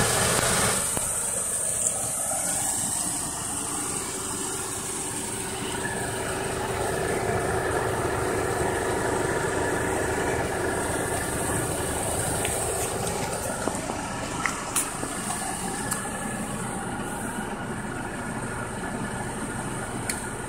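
Car engine idling steadily, with a few light clicks about two-thirds of the way through.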